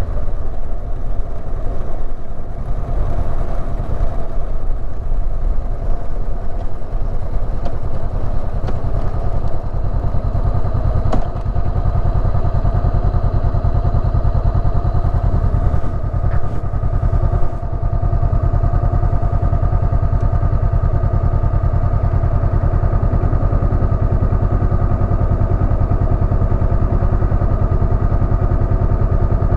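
Honda CB500X's parallel-twin engine running, its note shifting in the first half and then holding steady for the last ten seconds or so.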